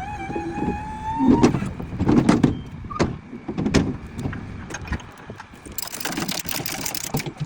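The low-loader trailer's hydraulic ramps being raised: a pump whines, rising slightly in pitch for about a second before stopping. Heavy metal clunks and rattles follow, then a burst of hiss near the end.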